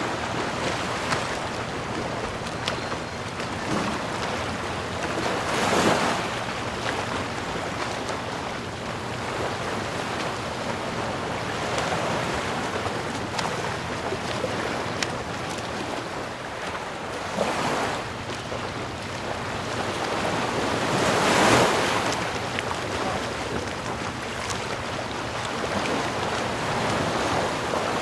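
Ocean surf: a steady wash of waves with swells breaking every few seconds, four times, the loudest a little past the middle.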